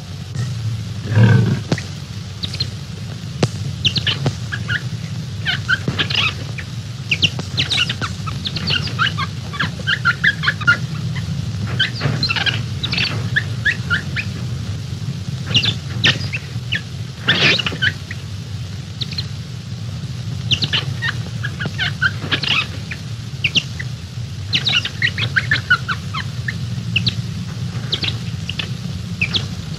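Jungle birds chirping and calling in quick, scattered short notes, over a steady low hum in an early film soundtrack. There is a louder call about a second in.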